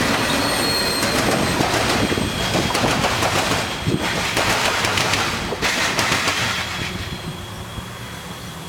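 Freight train cars rolling past on jointed track: steady wheel rumble with rapid clicking over rail joints and a faint high wheel squeal, dying away over the last couple of seconds as the train's end passes.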